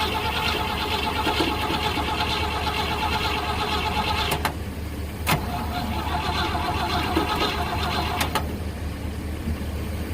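Starter motor of a 1970 Chevrolet C50 dump truck cranking the engine twice, each try opening and closing with a sharp click, the second shorter; the engine turns over on a jump start but does not catch.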